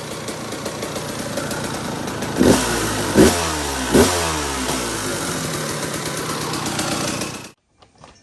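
Two-stroke dirt bike engine running, blipped three times in quick succession in the middle with the pitch shooting up and dropping back each time, then settling to a steady run before the sound cuts off suddenly near the end.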